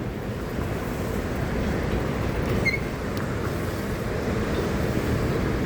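Steady rumbling noise of riding a bicycle on a wet road: wind buffeting the microphone along with tyre noise. A short high chirp about two and a half seconds in.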